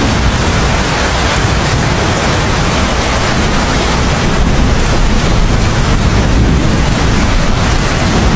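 Steady heavy rain falling, an even rushing hiss with a deep rumble beneath it.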